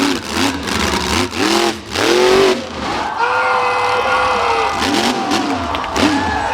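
Monster truck engine revving in quick repeated blips of the throttle, then held at high revs for about three seconds.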